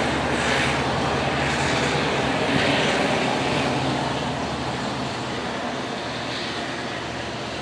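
Long Island Rail Road diesel commuter train running, with a steady low engine drone and rumble. The sound slowly fades over the second half.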